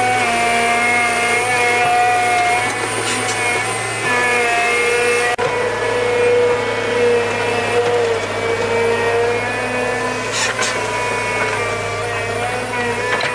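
A small engine running at high speed, steady with its pitch wavering a little, and a brief break about five seconds in.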